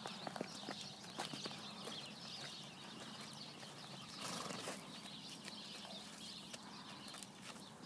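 Pony shifting about with scattered hoof clicks, and one short breathy snort a little past halfway through.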